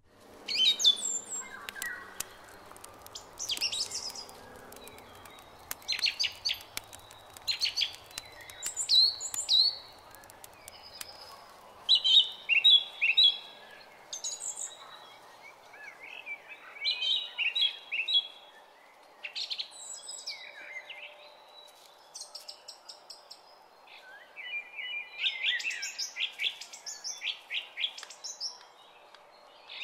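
Several songbirds chirping and singing in short, high phrases and quick trills, a new phrase every second or two, over a faint steady hiss.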